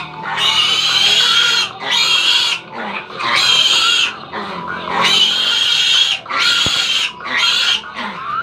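Piglet squealing: about six long, high-pitched screams in quick succession, each about a second long, as it is held for castration.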